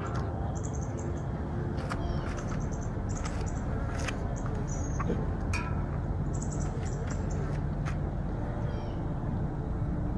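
Small birds chirping in short calls on and off, over a steady low outdoor rumble, with a few sharp clicks in between.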